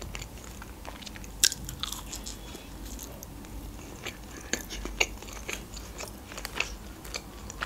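Close-miked chewing of meat pizza with the mouth closed: soft, irregular mouth clicks, one sharper click about 1.5 s in.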